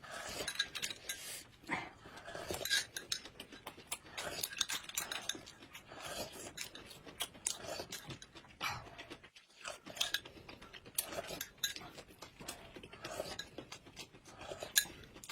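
Eating sounds: chewing and biting, with cutlery clinking against dishes in many short, irregular clicks.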